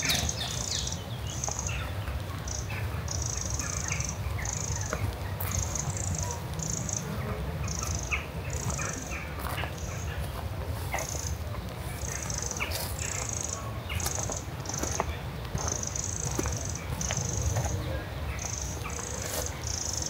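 Small wild birds chirping and calling in scrub, with a run of short high bursts about every half second to a second, and a steady low rumble of wind on the microphone.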